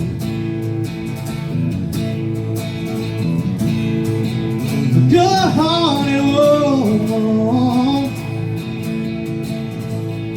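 Live country music with strummed acoustic guitar, playing on after the last chorus, with a melodic line that bends and slides from about five to eight seconds in.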